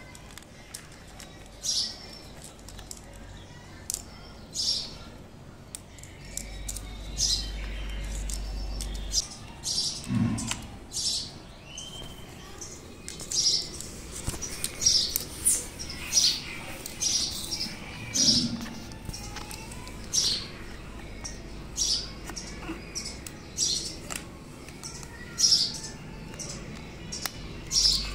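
A bird chirping over and over: short high chirps, one every second or two, coming faster through the middle stretch.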